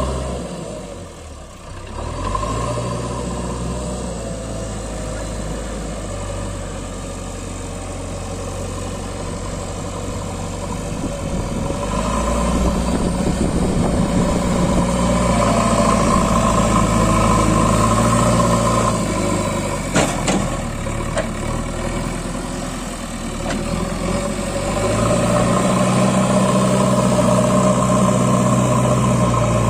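Heavy diesel engine running steadily, dipping briefly just after the start, then growing louder about twelve seconds in and again near the end. A sharp click sounds about two-thirds of the way through.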